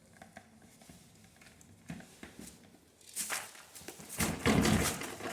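Plastic clattering and rustling as a vacuum cleaner's dust container is handled and emptied, starting about three seconds in after a near-quiet stretch.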